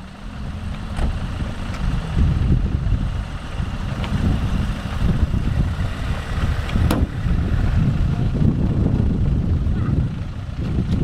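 Land Rover Discovery's engine running in a steady low rumble while the vehicle sits stuck in deep muddy water, with wind buffeting the microphone and a few light clicks.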